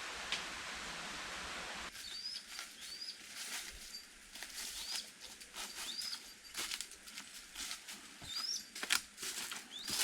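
A steady hiss for about the first two seconds, then a forest bird calling short, high, upward-hooked chirps about once a second over rustling and crackling, like leaf litter being disturbed.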